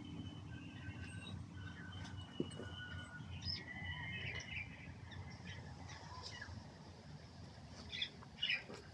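Birds chirping and calling in short whistled notes, with a few quick chirps near the end, over a faint low rumble.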